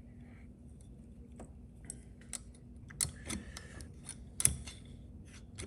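Scattered light metallic clicks and ticks from handling a Helicoil installation tool and coil insert, with a sharper click about three seconds in and the loudest about four and a half seconds in.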